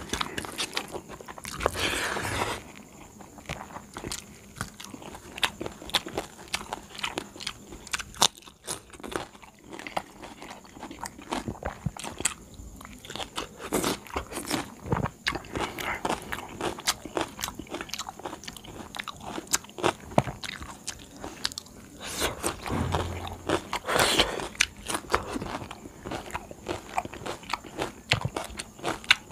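Close-up eating sounds: a person chewing and biting mouthfuls of rice and stuffed okra eaten by hand, with wet smacks, short crunches and fingers mixing rice on a steel plate, all as irregular clicks and crackles.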